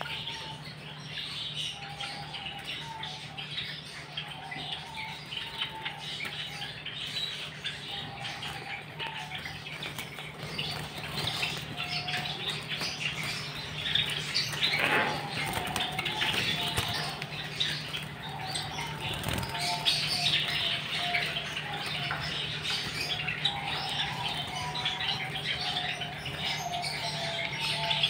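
Caged finches chirping continuously in many short, rapid notes, with wing flutters, over a steady low hum.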